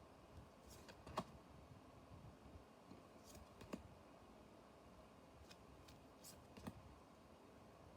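Near silence with a few faint, short clicks and taps, three of them clearest, from trading cards being handled and sorted.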